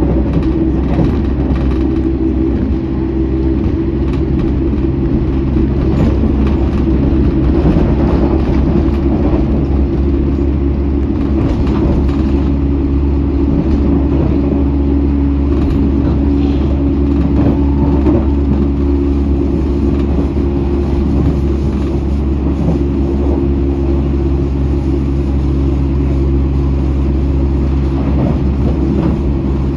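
London Underground train running at speed, heard from inside the carriage: a steady, loud rumble of wheels on rails with a low hum and a few faint clicks.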